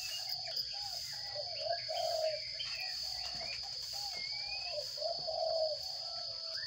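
Birds calling: a run of short, low, hoarse calls about twice a second, with scattered higher chirps over them. A steady high-pitched whine runs underneath.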